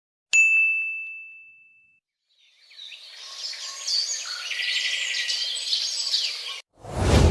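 A single bright ding rings out and fades away over about a second and a half. Then birds chirp and twitter for about four seconds until the sound cuts off abruptly. Near the end a loud, sudden rush of sound begins.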